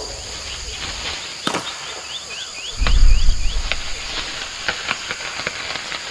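Rainforest ambience: a steady high insect drone with repeated short rising chirps, a few sharp snaps and clicks, and a deep low rumble that comes in about three seconds in.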